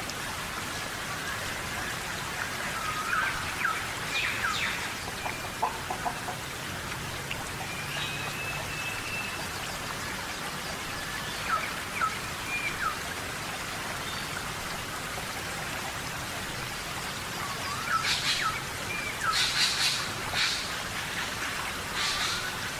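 Steady heavy rain falling in a tropical rainforest, with birds giving short whistled, curling chirps over it now and then, a burst of calls near the end.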